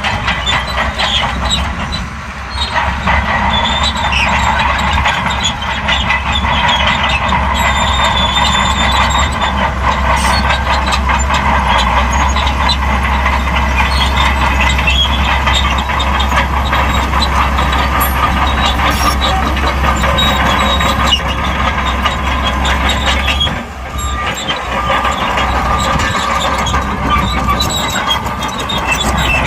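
Shantui crawler bulldozer working, its diesel engine running steadily under load with its steel tracks moving, while it pushes sand. The sound eases briefly twice, about two seconds in and again near the end.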